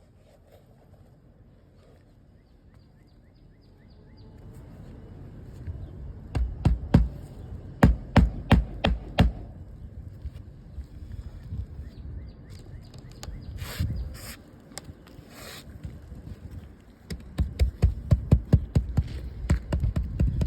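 Tapping on an asphalt roof shingle: sharp knocks in quick clusters, a handful about six to nine seconds in, then a faster run near the end. It is tapping that shakes granules loose from a worn shingle.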